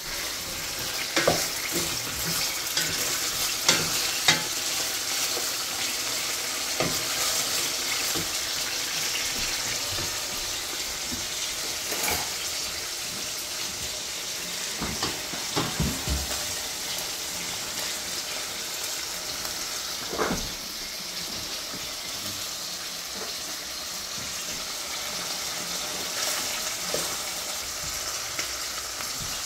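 Meat frying in a stovetop pan, a steady sizzle, with occasional knocks and clicks of a utensil against the pan.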